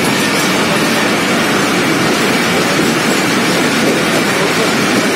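Passenger train running through a rock tunnel: a loud, steady rushing noise from the wheels and air, closed in by the tunnel walls.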